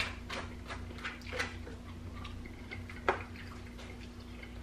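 Close-miked chewing and lip smacking, with light clicks of a plastic fork in a foam takeout container. One sharper click about three seconds in.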